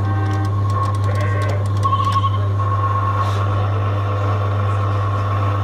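Jolly Roger Troy the Tractor kiddie ride's motor running with a steady hum, with light clicking from the mechanism in the first couple of seconds.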